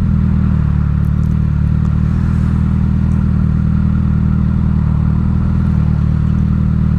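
Suzuki GSX-S1000 inline-four running through a full Dominator exhaust at steady cruising speed, its note holding an even pitch with no revving.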